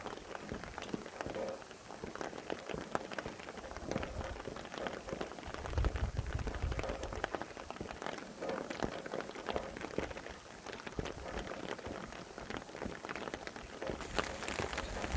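Steady rain with many separate drops striking close by, and a low rumble of wind gusting about six seconds in and again near the end.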